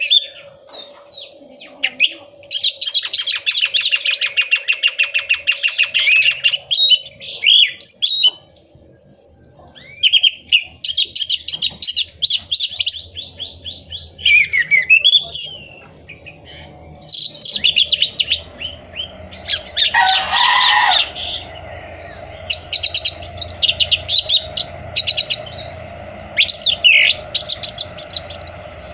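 Orange-headed thrush singing a varied song of quick whistled phrases, with a long rapid trill a few seconds in and a harsh buzzy note about twenty seconds in, over a faint steady hum.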